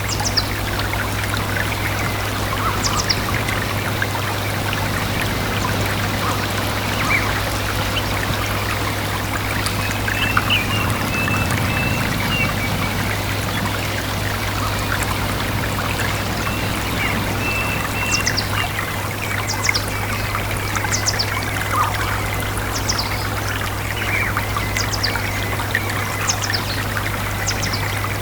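Stream water trickling and pouring steadily, with small birds chirping now and then: short high calls, more frequent in the last third. A steady low hum runs underneath.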